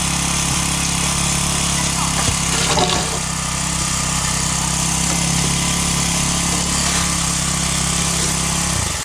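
An engine running steadily at constant speed, with a brief louder clatter about three seconds in.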